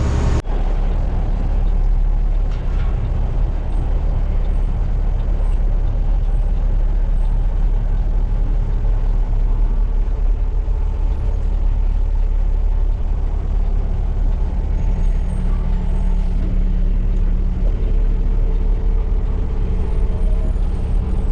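Dump truck's diesel engine running steadily under way, a constant low drone.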